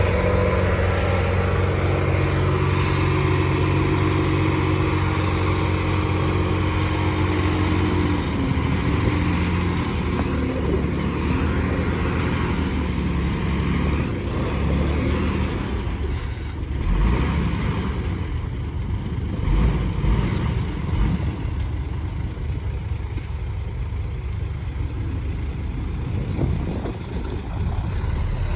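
Heavy diesel engine of earthmoving equipment running. It holds a steady strong note for about eight seconds, then eases off into a rougher running sound, with a couple of heavy thuds past the middle.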